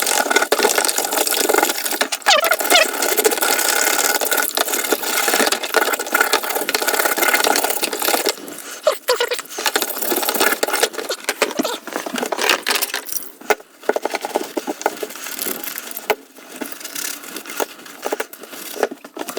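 Rusty metal tool parts being washed by hand in water with car shampoo: continuous scratchy washing noise with scattered knocks of metal. It drops in level and becomes more broken up about eight seconds in.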